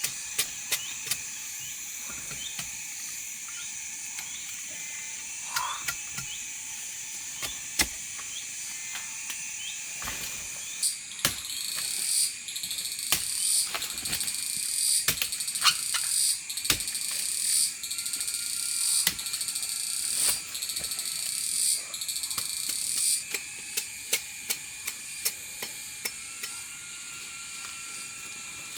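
A steady high insect chorus with scattered sharp clicks and knocks. Through the middle, a loud rasping pulse repeats about once a second for roughly twelve seconds.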